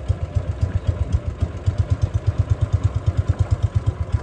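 Small boat engine running steadily with a rapid low thumping, about ten beats a second.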